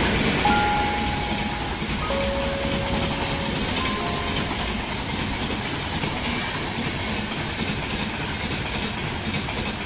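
Steady rolling noise of a passing train of LHB passenger coaches, their wheels running over the rails along the platform.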